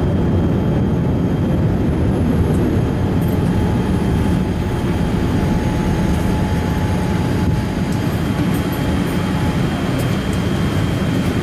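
Boeing 787 Dreamliner cabin noise: the steady, deep roar of the jet engines and airflow heard inside the passenger cabin, with a faint steady whine above it.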